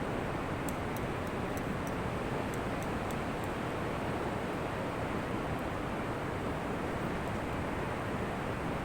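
Ocean surf washing steadily on a beach, an even rush with no single breaker standing out, and a few faint high ticks in the first few seconds.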